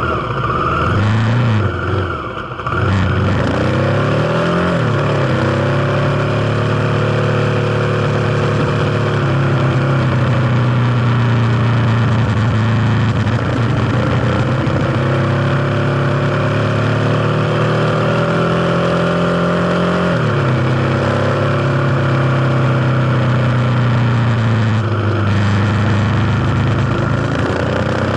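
Kawasaki KLX250's single-cylinder four-stroke engine running under way, over a steady rushing noise. The engine note drops about two seconds in and climbs back by about five seconds. It sags around the middle, falls sharply about twenty seconds in, and rises again near the end, as the throttle is opened and eased off.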